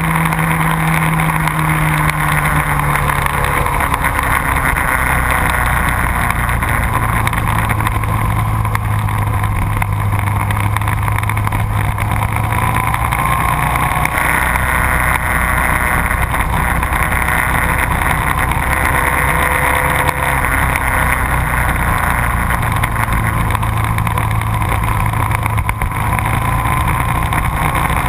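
Motorcycle engine running at speed on a race track, heard from on board under heavy wind noise. The engine note drops over the first few seconds, then holds steady.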